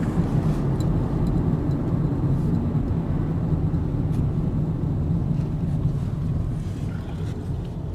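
Steady road and engine noise of a moving car heard from inside the cabin, a low rumble with tyre hiss that eases off slightly near the end.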